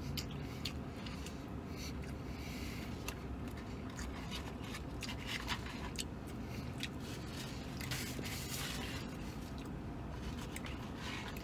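A man chewing a big mouthful of sandwich, with faint scattered wet mouth clicks and smacks over a low steady hum.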